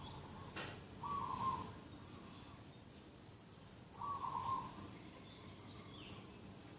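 Dove cooing: a short call repeated twice about three seconds apart, with small birds chirping faintly in the background.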